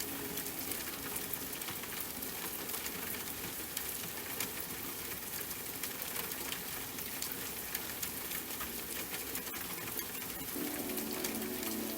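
Steady rain falling, a dense even patter of drops with no music under it; soft sustained music tones come back in near the end.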